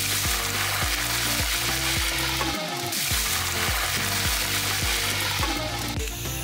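Pork head pieces deep-frying in hot oil in a kawali, a steady sizzle that cuts off about six seconds in.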